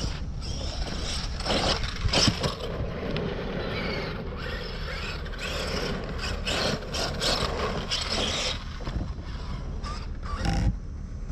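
Arrma Kraton 12S RC truck's drivetrain and brushless motor running under throttle with a rough, ratchety mechanical grinding, rising and falling with the driving. It sounds like a dry differential, or a centre diff that may need re-plugging.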